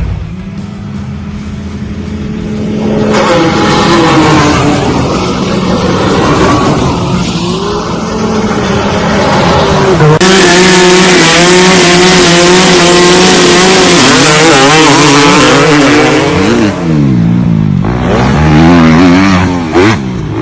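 Off-road vehicle engines running and revving across several short clips cut together. Near the end the engine pitch rises and falls repeatedly with the throttle.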